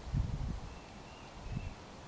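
A faint, thin, slightly wavering bird note lasting about a second, starting near the middle, over irregular low rumbling thumps that are loudest at the start.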